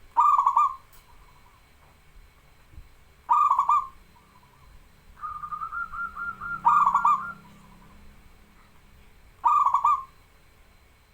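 Zebra dove (local perkutut) cooing: four loud rolling coo phrases about three seconds apart, with a softer quick run of short notes before the third.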